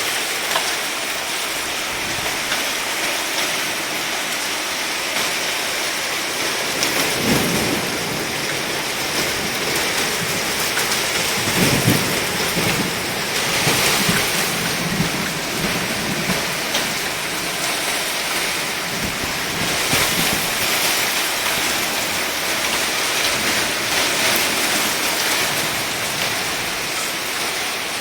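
Heavy downpour rain hissing steadily, with deep low rumbles about seven seconds in and again around twelve to sixteen seconds.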